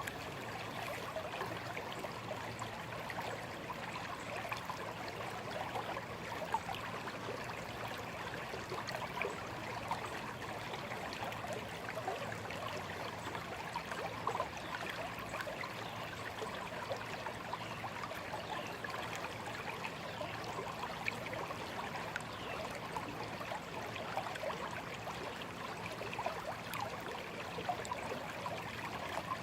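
Small, shallow stream running and trickling over stones, a steady babbling with lots of small splashes and gurgles.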